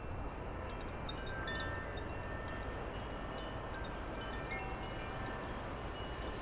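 Chimes ringing now and then at several different pitches over a steady low rushing background.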